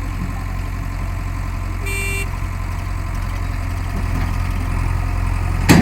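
Heavy engine running steadily at low revs, with a short horn toot about two seconds in and a loud knock near the end.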